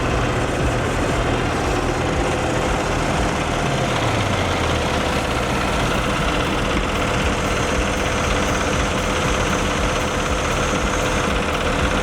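Cummins diesel engine of a 2019 International truck idling steadily, its low pitch dropping briefly about four seconds in.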